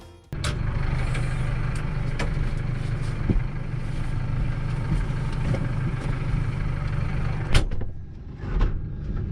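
Wind buffeting an unshielded microphone: a steady low rumble with a few sharp clicks and knocks, easing off briefly near the end.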